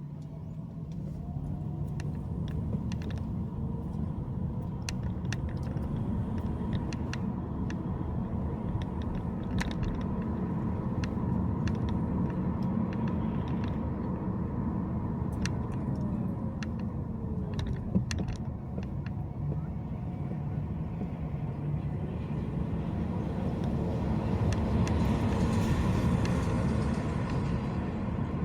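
Steady low rumble of road and engine noise heard from inside a moving car, with scattered small clicks and knocks. A louder rushing swell builds and fades near the end.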